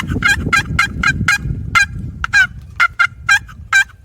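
A turkey call worked up close, sounding a long run of sharp, raspy yelps, quick at first and then more spaced out.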